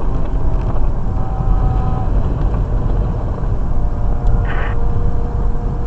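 Steady road and engine rumble heard from inside a moving vehicle cruising on a highway, with a brief higher-pitched sound about four and a half seconds in.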